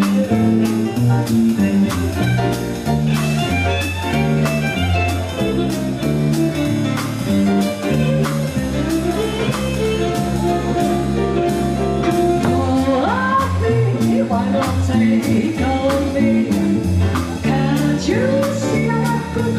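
Jazz quintet playing: a bass line stepping from note to note about twice a second under drums with regular cymbal strokes, and a lead melody on top that slides up in pitch twice.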